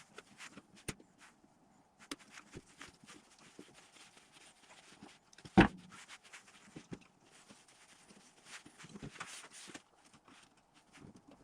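Scattered small clicks and knocks, with one loud knock a little past halfway.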